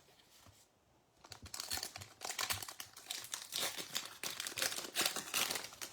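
Foil trading-card pack wrapper being torn open and crinkled by hand, a dense crackly rustle that starts about a second in.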